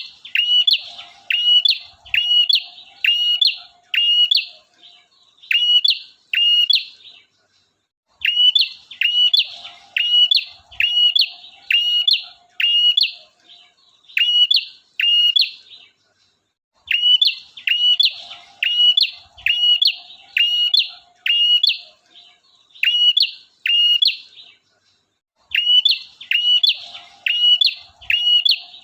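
Male prinia (prenjak) calling loudly in a fast run of sharp, repeated chirping notes, about two a second. The runs last about seven seconds each and are split by three short pauses. The song is a bird-lure recording used to draw in other prinias.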